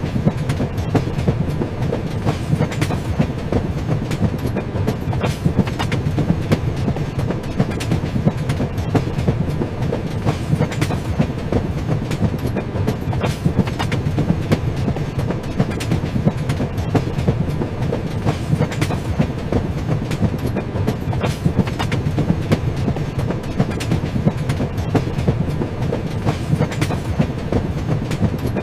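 Train running on rails: a steady low rumble with frequent sharp clicks of the wheels passing over the track.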